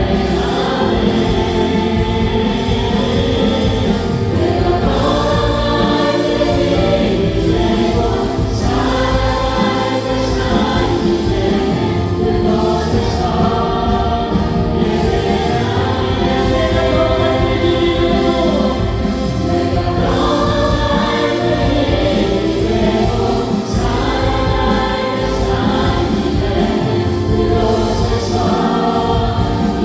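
Live contemporary Christian worship music: a praise band of keyboards, synthesizer, electric guitar, bass guitar and drums, with many voices singing the melody together in phrases a few seconds long.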